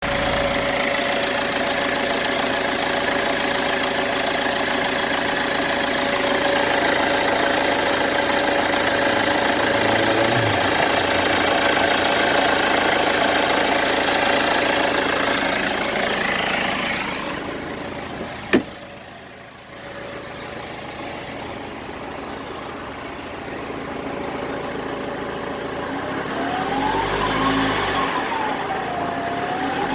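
BMW 320d's four-cylinder diesel engine with a steady high whistle over a loud rushing noise, a whistle the owner takes for the turbo. About two-thirds through the rushing fades and a single click sounds; near the end the engine is revved and the whistle rises and falls in pitch with the revs.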